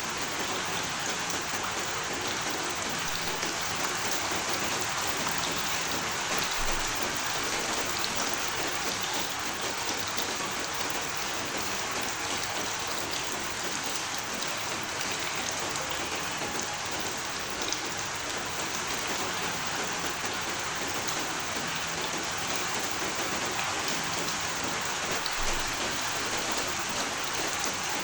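Steady rain falling: an even hiss with scattered drops tapping.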